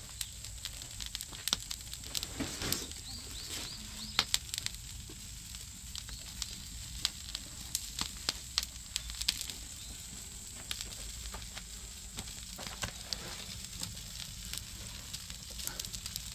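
Wood fire in a barbecue pit crackling, with many sharp irregular pops over a steady hiss.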